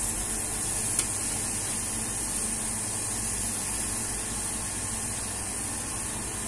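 Beef smash burger patties sizzling steadily on a flat-top griddle, with one sharp click of the metal spatula about a second in as the patties are turned.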